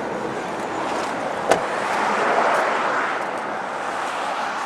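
Steady rushing noise of a passing vehicle that swells and then fades, with a single sharp click about a second and a half in.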